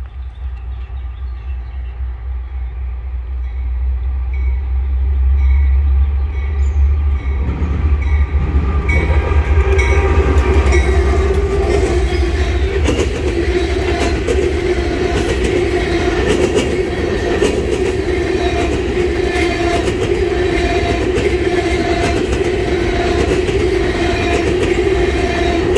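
Norfolk Southern diesel freight locomotive rumbling louder as it approaches and passes at track speed. It is followed by the steady rolling noise of loaded ballast hopper cars, with wheels ringing and clacking over the rail joints.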